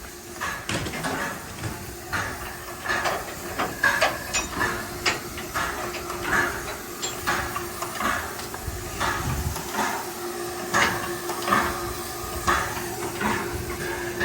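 Narrow-gauge 2-10-2T steam locomotive standing and hissing, with a steady low hum and many irregular metallic clanks and knocks.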